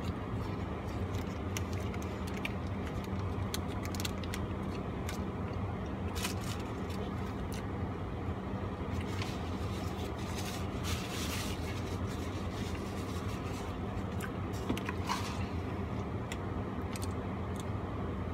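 Chewing and the crinkle of a paper burger wrapper, heard as small scattered clicks and rustles over a steady low hum in a car cabin.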